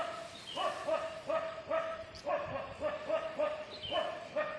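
A dog yipping and whimpering in a rapid string of short, high calls, about two or three a second, with a brief pause partway through.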